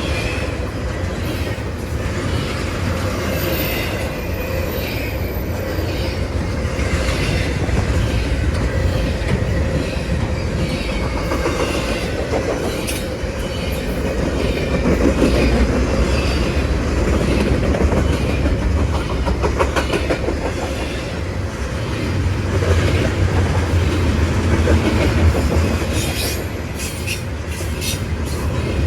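A CSX freight train rolling past at a crossing, a steady loud rumble of wheels on rail with clickety-clack over the joints and some wheel squeal. A quick run of sharp clacks comes near the end.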